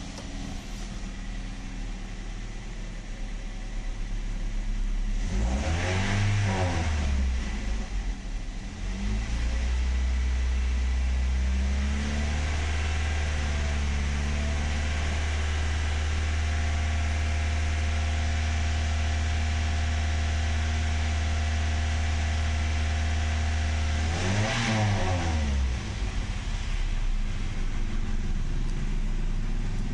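Toyota Yaris four-cylinder petrol engine being revved: a quick rev up and back down, a short blip, then held at raised revs for about fourteen seconds before a last rev and drop back to a steady idle.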